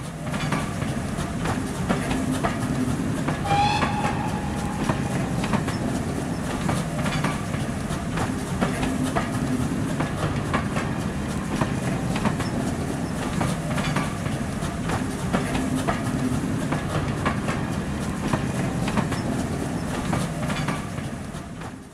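Train running along track: a steady rumble with repeated clicks of wheels passing over rail joints, and a brief high tone about three and a half seconds in.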